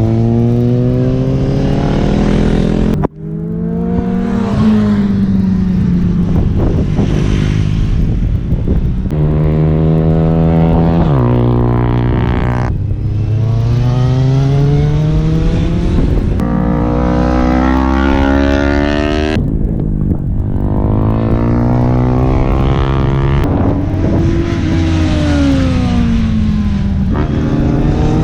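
Sport motorcycle engine revving hard through the gears. The pitch climbs, then drops sharply at each shift, over and over. A brief abrupt break comes about three seconds in.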